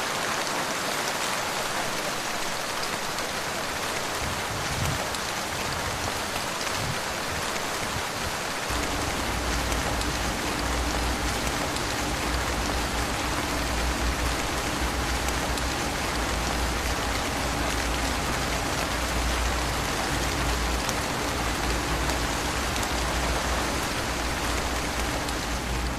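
Steady rain falling, a dense even hiss. About nine seconds in, a low steady hum starts underneath it and keeps going.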